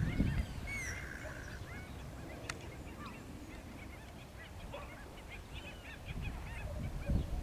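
A flock of birds calling: many short, overlapping calls, each one rising and falling in pitch. A low rumble sits under them at the start and again near the end.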